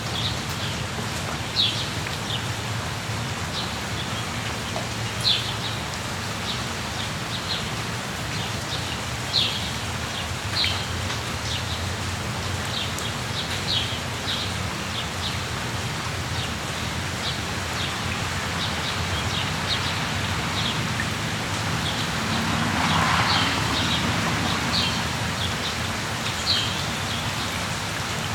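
Steady rain falling, with short high bird chirps scattered throughout. The rain noise swells briefly about three-quarters of the way in.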